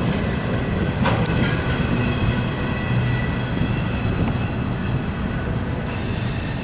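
Double-stack intermodal freight cars rolling past on steel rails: a steady rumble of wheels on track with faint thin high squealing tones. There is a sharp clack about a second in.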